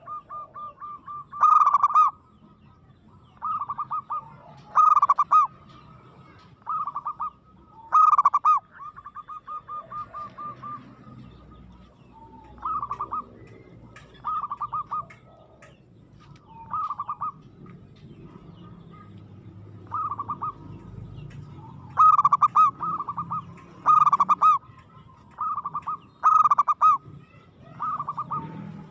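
Zebra dove (perkutut) in full song, cooing over and over: short pitched coo phrases with fast rolling trills, some loud and some softer, with fewer calls in the middle stretch.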